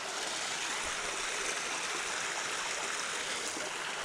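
Creek water running steadily, an even rushing babble.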